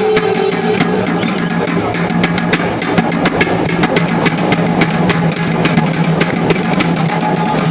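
Hand drum beaten in a fast, steady rhythm of sharp strokes, several a second, over a steady low hum.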